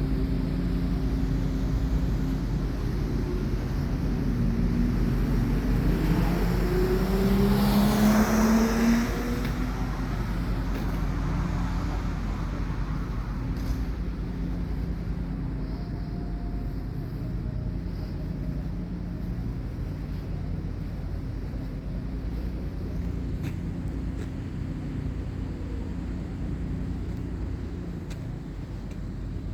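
Porsche 911 Turbo's twin-turbo flat-six engine running as the car drives. Its pitch rises as it accelerates about five to nine seconds in, then settles to a steady cruise.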